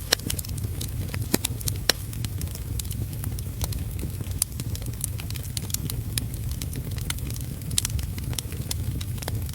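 Wood fire crackling in a fireplace: many irregular sharp snaps and pops over a steady low rumble, mixed with heavy rain.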